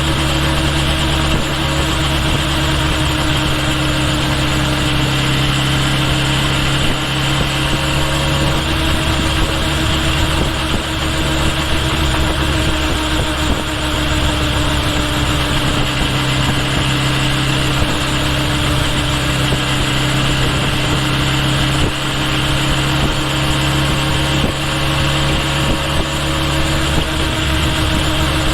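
Kawasaki Ninja H2 SX's supercharged inline-four engine running steadily, picked up close to the bike's rear. Its low engine tone changes about eight seconds in and returns about halfway through.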